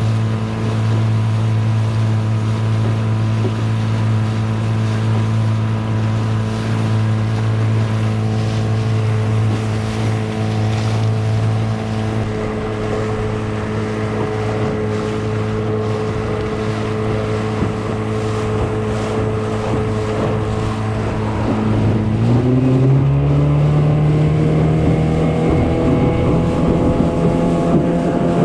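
15 hp Mercury two-stroke outboard running at a steady speed. About 22 seconds in it is throttled up, its pitch rising and holding at a higher note.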